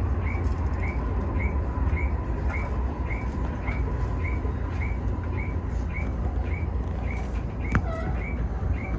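Toei 6500-series train running slowly, heard from the cab as a low rumble, with a short rising chirp repeating about twice a second throughout. A sharp click and a short falling beep come near the end.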